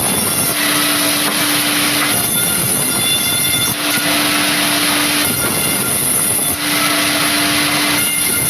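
Woodworking machinery working rubberwood, running loudly with a steady noise. A hum comes and goes in a regular cycle of about three seconds.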